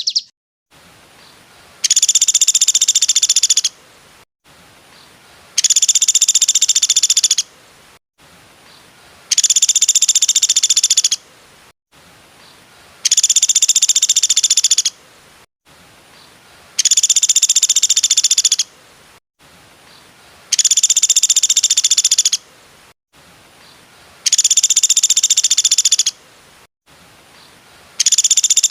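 A bird's rapid, high-pitched rattling trill, played as identical bursts of about a second and a half that repeat roughly every four seconds, with a faint hiss in the gaps: a looped call recording of the kind used to train songbirds.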